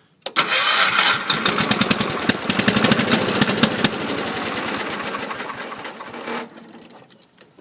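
Wheel Horse C-105 garden tractor engine cranking over on its starter in deep cold for about six seconds, with a fast, even beat of compression strokes. It nearly fires but does not catch, then the cranking stops.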